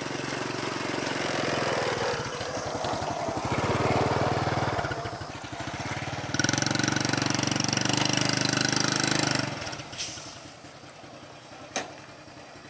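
Small vehicle engine running and changing speed, then shut off about nine and a half seconds in, followed by two light clicks.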